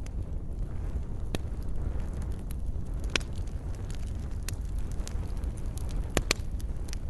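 Wood fire burning with a steady low rumble and scattered sharp crackles and pops, a few louder ones about three seconds in and a close pair near the end.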